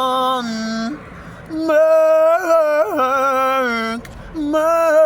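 Unaccompanied solo voice singing long held notes in three phrases, with short breaks about a second in and near the four-second mark.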